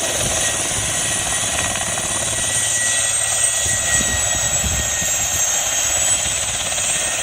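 Attack helicopter running steadily: rotor and turboshaft engine noise with a high turbine whine that drifts slowly lower.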